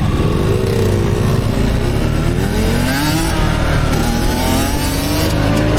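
Motorcycle engine running under throttle, its revs rising and falling several times.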